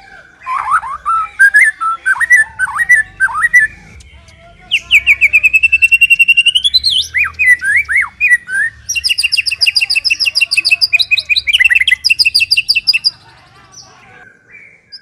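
A white-rumped shama (murai batu) singing a varied song: swooping whistled notes, then a long run of fast repeated notes about five seconds in that climbs at its end, more swoops, and a fast rattling two-tone trill about nine seconds in that lasts some four seconds before the bird pauses near the end.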